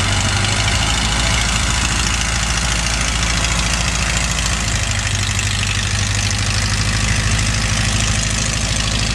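Light aircraft's piston engine idling steadily close by, an even low running note with a fast regular pulse and a lot of hiss.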